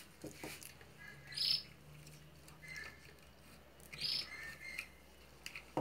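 Faint bird chirps: two short high calls, about a second and a half in and about four seconds in, with a few fainter peeps between them.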